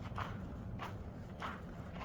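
Footsteps of a person walking at a steady pace, about three steps in two seconds, over a low steady rumble.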